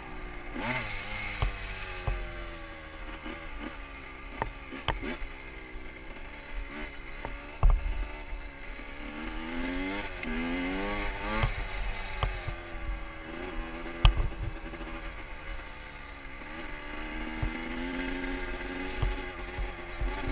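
Motorcycle engine being ridden, its revs rising and falling again and again as the throttle opens and closes, with low rumble and scattered knocks and rattles, two sharp ones standing out, the first about eight seconds in.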